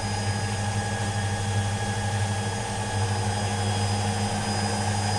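Kuppersberg WM 410 W washing machine spinning empty on its spin cycle: a steady motor hum with a thin high whine over it, no knocking. The owner judges the motor to be working more or less normally.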